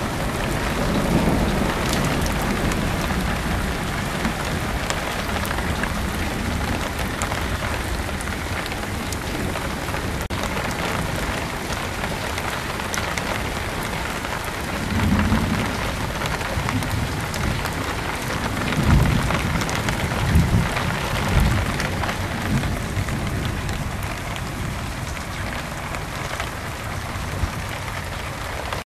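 Steady heavy rain falling, with low rumbles of thunder near the start, again about halfway through, and a cluster of several louder rolls about two-thirds of the way in.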